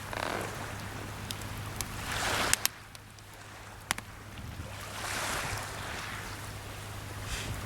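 Small sea waves washing onto the shore, one building up and stopping abruptly about two and a half seconds in, another swelling a few seconds later, with a few sharp pops from a wood campfire.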